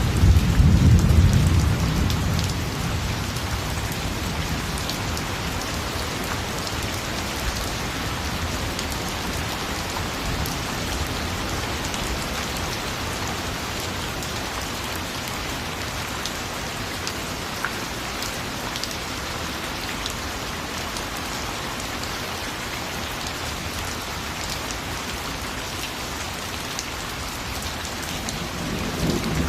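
Steady rain falling. A low rumble of thunder dies away over the first couple of seconds, and another begins to rise near the end.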